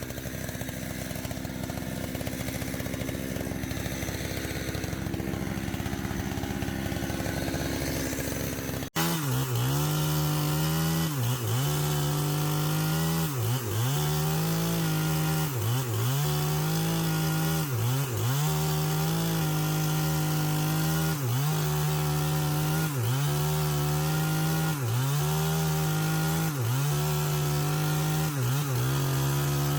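Chainsaw running steadily; after a break about nine seconds in it runs louder, its pitch dipping about once a second as it is worked through wood.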